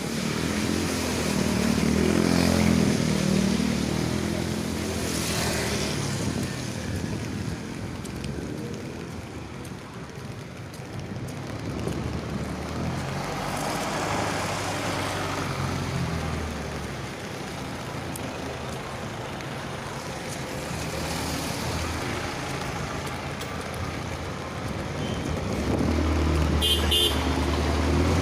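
Road traffic: vehicle engines passing, swelling and fading several times. A short horn beep sounds near the end.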